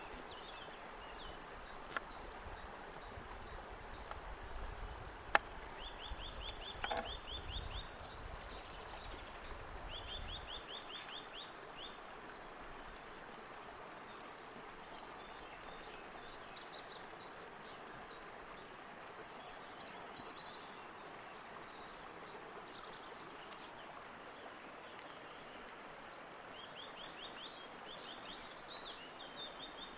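Creek-side ambience with a steady wash of noise. A small bird gives short, fast trills three times. A few sharp clicks fall in the first several seconds, and a low rumble stops about ten seconds in.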